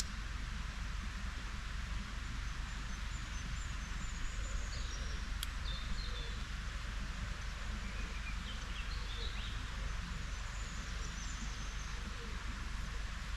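Outdoor ambience: a steady noisy background with a low rumble, and faint small-bird chirps a few times in the middle, with one sharp click.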